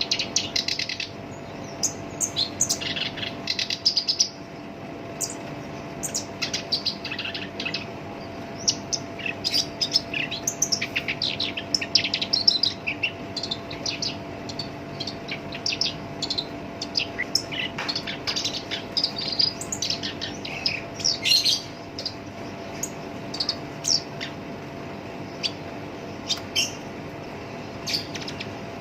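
Black-browed reed warbler singing a fast, harsh song of short chattering and scratchy notes strung together with hardly a break. A faint steady hum runs underneath.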